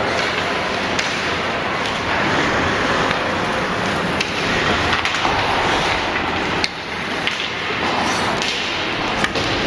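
Ice hockey play: a steady scrape and hiss of skates on the ice, with several sharp clacks of sticks and puck.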